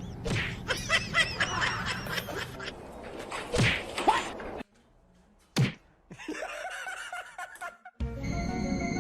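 Music with people laughing, and one sharp smack a little past halfway through.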